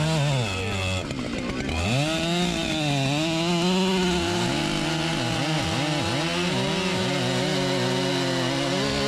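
Stihl MS 881 two-stroke chainsaw running hard, its engine speed dipping and climbing again and again, then holding steady near the end.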